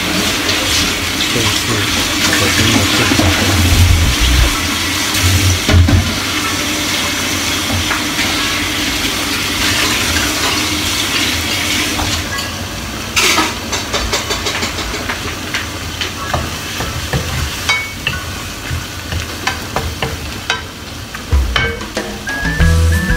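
Sautéed mung beans, onion and tomato sizzling steadily in a hot frying pan.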